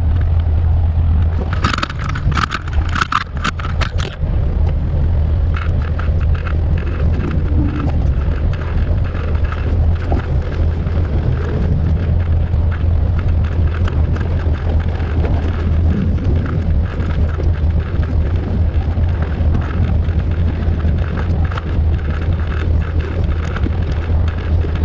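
Vehicle engine running with a steady low drone. A burst of sharp clicks and rattles comes about two to four seconds in.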